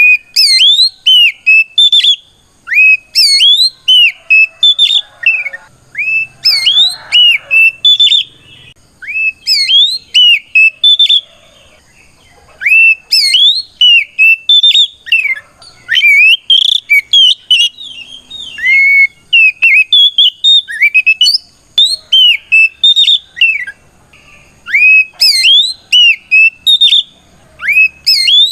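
Oriental magpie-robin (kacer) singing loudly, in its full challenging song aimed at a rival: quick runs of clear whistled notes that swoop sharply up and down, in bursts of a second or two with short pauses between.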